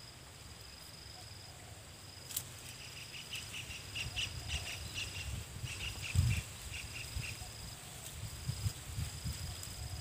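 A bird calling a quick run of short, repeated notes in the middle of the clip, over a steady high insect trill that breaks off now and then. Underneath are low rustles and bumps from dry palm fronds being handled close by.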